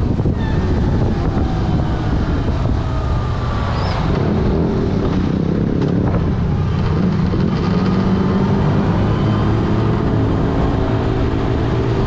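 Yamaha FZ6 Fazer S inline-four engine running on the road, with heavy wind noise on the helmet or bike camera's microphone. The engine note falls over the first few seconds, then holds steady.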